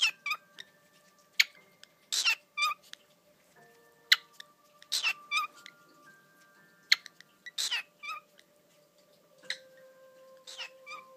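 Cockatiel giving a series of short, shrill, warbling screeches and chirps, three of them loud, with quick sharp clicks between the calls.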